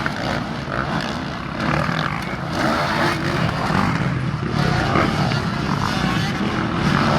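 Motocross dirt bikes running and revving on the track, a dense, continuous engine noise.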